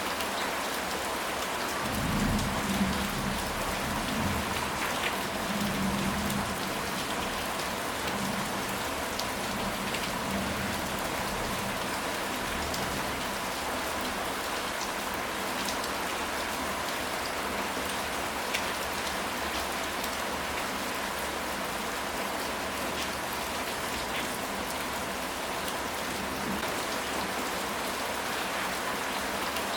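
Steady rain falling on a surface, with a low rumble of thunder rolling through from a couple of seconds in for several seconds.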